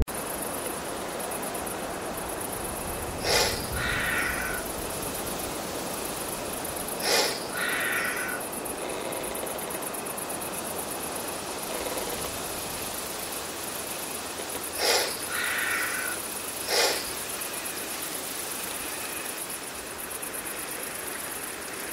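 Nature ambience of steady high insect trilling and hiss, with an animal calling four times, each call a short sharp note, the first three followed by a longer buzzy note.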